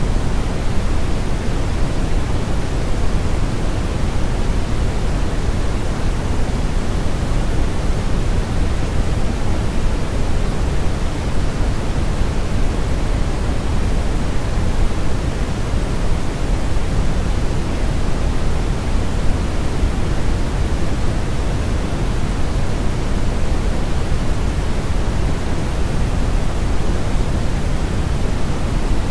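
Steady brown noise: a constant, even hiss weighted heavily toward the low end, with a deep rumble and little treble.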